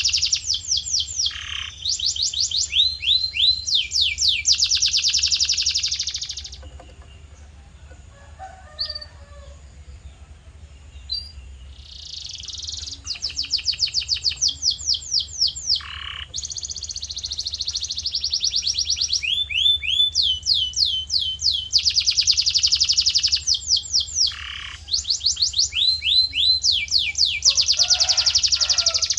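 Male domestic canary singing in long, rapid trills of quickly repeated sweeping notes, with a pause of several seconds near the middle before the rolling song resumes.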